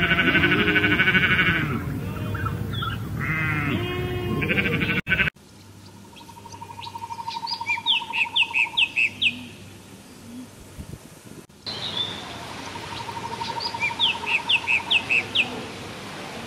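Sheep bleating: one long wavering bleat, then several shorter ones. After a sudden cut, small birds chirp in quick runs of falling notes over a faint steady trill, the same pattern heard twice.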